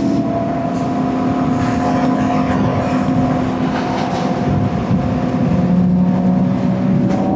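A vehicle engine running steadily at low revs, its pitch stepping down a little about five and a half seconds in.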